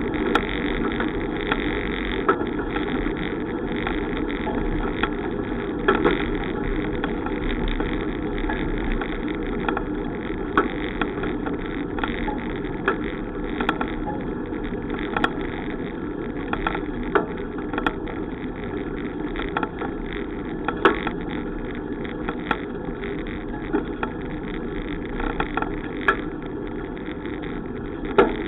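Steady rumble of riding a bicycle, tyre and wind noise on the microphone, with scattered sharp clicks and knocks from bumps.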